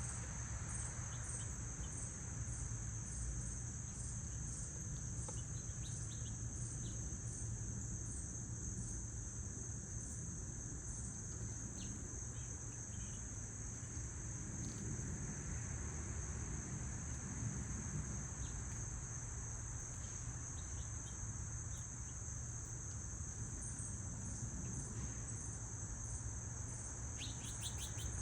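Insect chorus: a steady high-pitched trill runs on unbroken, with a second insect pulsing above it about twice a second. A few short bird chirps come and go, and there is a low rumble underneath.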